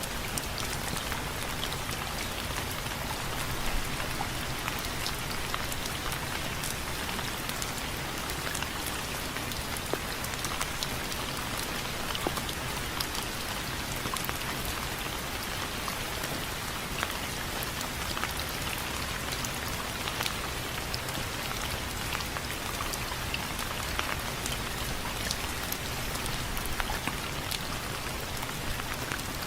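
Steady rain falling on window frames: an even hiss with many scattered drop ticks.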